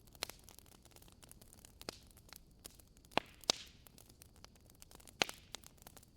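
Wood fire burning in a fireplace, crackling with scattered sharp pops; the loudest pops come about three seconds in, half a second later, and again about five seconds in, with a brief hiss in the middle.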